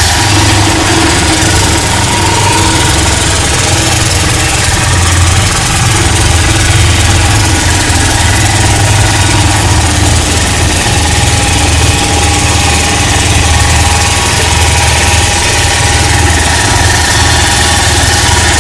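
Small diesel engine of a homemade axial-flow water pump running steadily, with a constant low hum.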